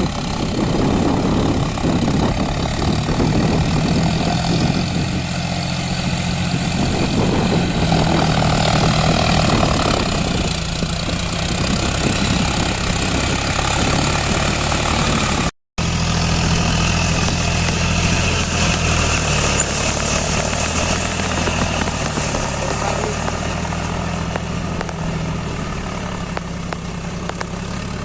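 John Deere 5042 tractor's three-cylinder diesel engine running steadily, working the tractor through mud on cage wheels. The sound cuts out briefly just past halfway and fades slightly near the end.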